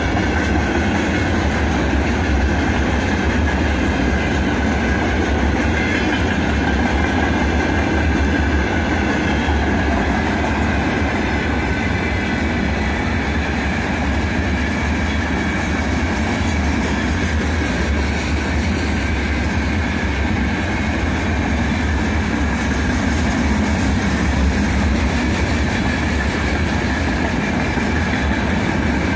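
Freight train of open gondola wagons rolling past at steady speed: a continuous, even running noise of steel wheels on the rails.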